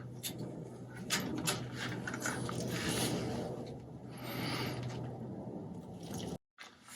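Clicking, rattling and scraping of motorcycle parts and connectors being handled during wiring work, over a steady low hum. The sound cuts off suddenly near the end.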